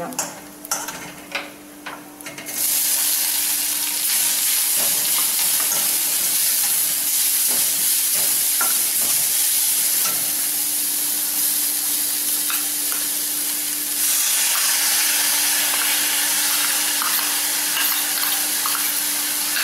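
Food frying in ghee in a stainless steel kadai, stirred and scraped with a metal slotted spatula. Light scrapes and clicks at first; about two and a half seconds in, a loud steady sizzle starts as grated coconut goes into the hot pan, and it carries on under the stirring, a little louder again near the end.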